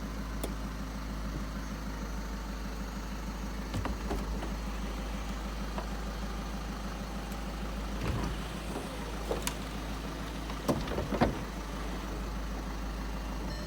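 Volkswagen Eos 2.0 TDI diesel engine idling with a steady low hum, with a few short clicks and knocks, the loudest a little after ten seconds in.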